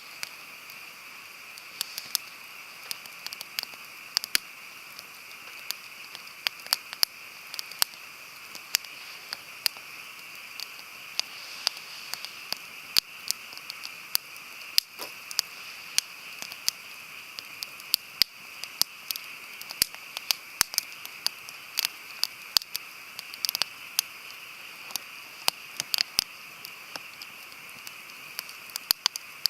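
Wood campfire crackling, with frequent sharp, irregular pops over a steady hiss.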